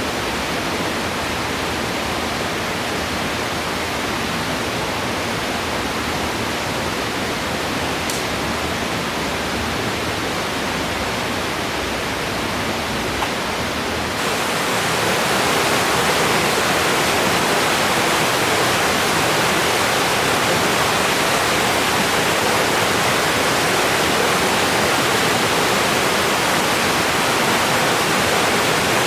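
Rushing river water: a steady, even rush that grows louder about halfway through.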